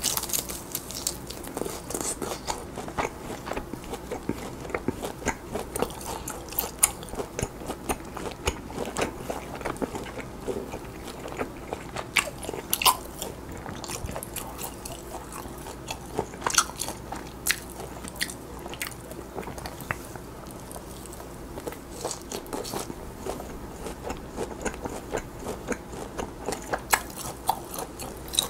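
Close-miked biting and chewing of charred grilled lamb rib meat, with frequent irregular sharp crunchy clicks.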